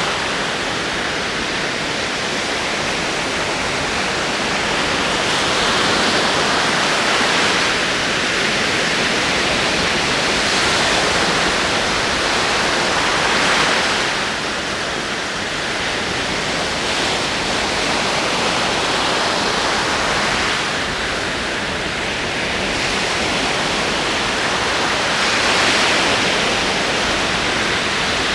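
Ocean waves rolling onto the shore: a steady rush of surf that swells and fades in slow surges several seconds apart.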